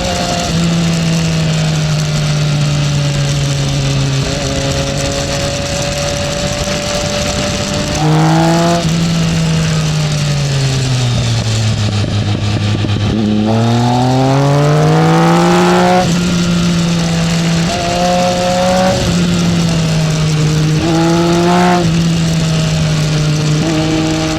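Onboard sound of a Triumph Speed Triple's inline three-cylinder engine riding at speed, with wind rush throughout. The revs hold, fall away slowly as the bike slows, then climb quickly under hard acceleration, followed by several short dips and rises in pitch.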